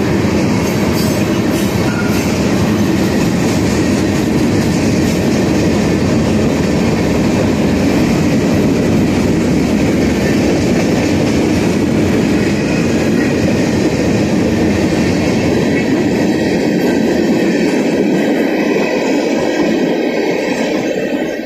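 Freight train of tank cars and covered hopper cars rolling past close by: a steady, loud rumble and clatter of steel wheels on the rails, the higher clatter thinning out over the last few seconds.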